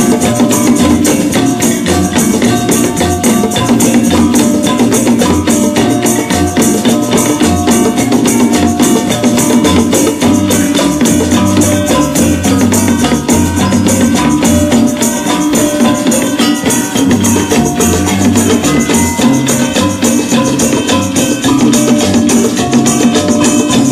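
Malay fusion music played loud: gamelan combined with nasyid, dikir barat and band instruments, over a fast, steady percussion beat with sustained notes and a moving bass line.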